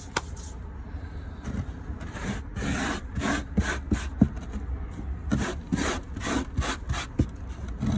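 Gritty succulent potting soil being scraped and pressed around plants in a small planter: a run of rough rubbing strokes, several a second, with a few sharp clicks.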